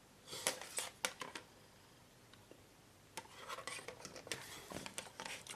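Plastic model-kit sprues being handled: a few sharp clicks of styrene parts knocking together, then a stretch of rustling and clicking from about three seconds in.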